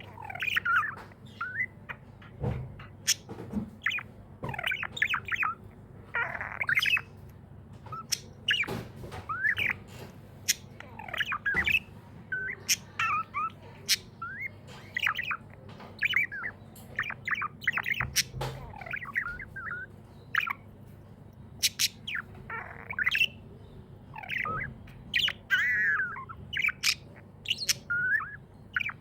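Pet budgerigars chirping and squawking in a busy, irregular stream of short chirps, with sharp clicks among them.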